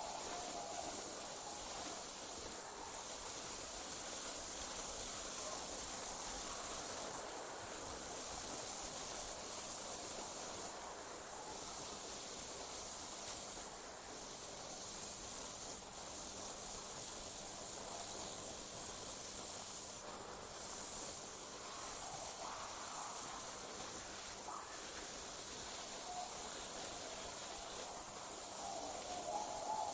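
A chorus of crickets trilling steadily at a very high pitch, dipping briefly now and then.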